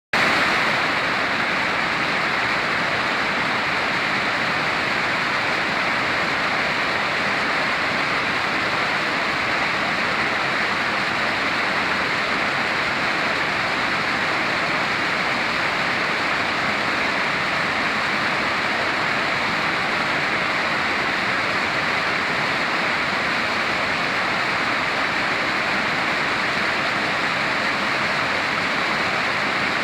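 Spring-fed waterfall, groundwater gushing out of a rock face and falling in many streams, making a steady rush of water.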